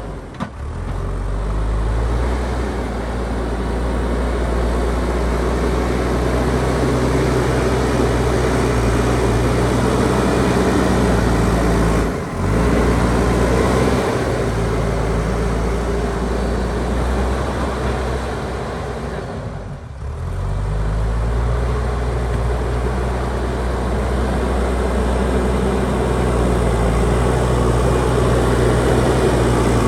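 JCB backhoe loader's diesel engine running steadily at working revs, with a brief drop about twelve seconds in and another dip and pick-up around twenty seconds in.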